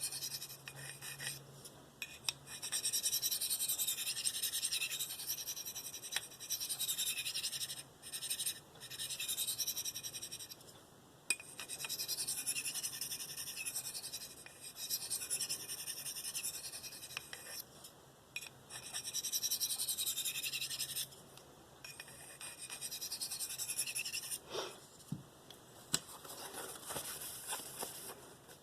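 Steel knife blade (S30V) being stroked across a Spyderco 302M medium ceramic bench stone with light pressure, a high scraping hiss on each pass, repeated stroke after stroke with short pauses between. Near the end the passes turn quieter, with a few sharp clicks.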